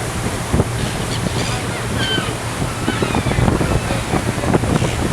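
Wind buffeting the microphone over the rush of water along a ferry's hull, with the ferry's engine humming steadily underneath. A few brief high cries come through about one to two seconds in.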